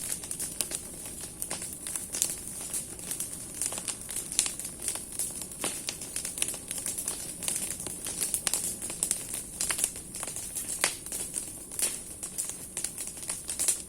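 Large bonfire of burning branches, the wood crackling with frequent irregular sharp pops over a steady high hiss.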